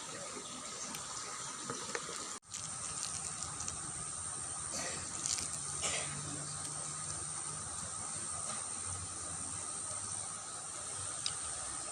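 Water running steadily in a small ditch, a continuous gushing wash that drops out for an instant about two seconds in.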